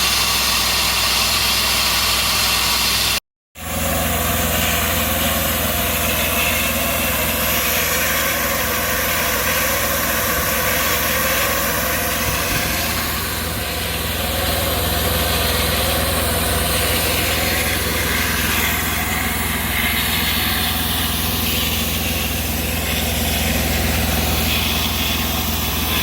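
Fiber-optic cable blowing equipment running steadily: a low engine-like hum under a strong, even hiss of air. The sound cuts out completely for a moment about three seconds in, then resumes.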